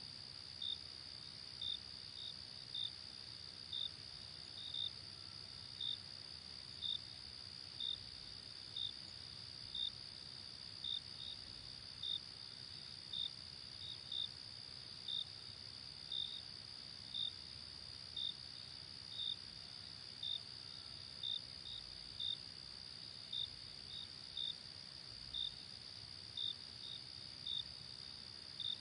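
Crickets chirping at night: a steady high-pitched trill, with separate short, high chirps about once a second, over a soft background hiss.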